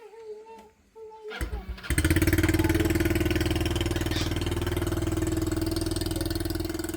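Small motorcycle engine starting, catching about a second and a half in, then idling steadily with a fast, even beat.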